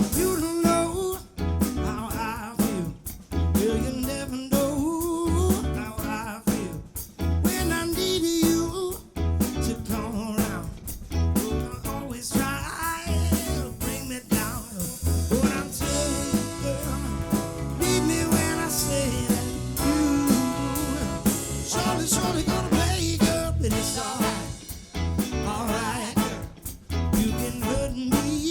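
Live band playing an upbeat number with guitar, bass, drum kit and vocals, on a steady beat.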